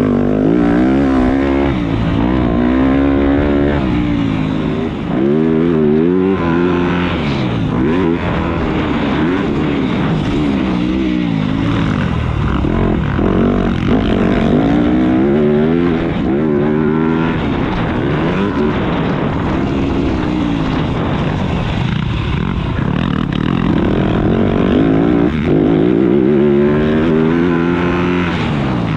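Motocross dirt bike engine being ridden hard, its pitch rising and falling over and over every second or two as the throttle is worked and gears change.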